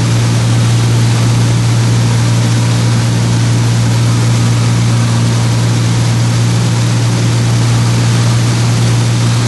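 Small propeller plane's engine and propeller running steadily, heard from inside the cabin: a strong, even low hum over a constant rushing noise.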